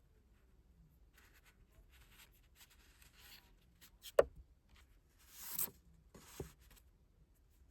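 Hands handling a K-pop album's packaging and printed contents: soft rustling and scraping of paper and card, one sharp click about four seconds in, then a brief louder rustle and a lighter tap.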